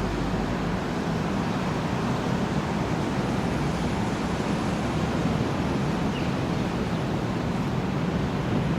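Steady rushing noise with a low rumble, even throughout: wind buffeting the microphone in rough weather.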